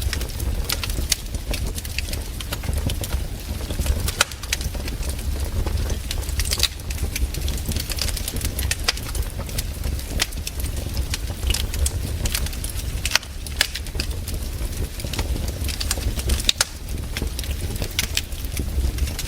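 Wood campfire crackling, with irregular sharp pops and snaps, over a steady low rumble.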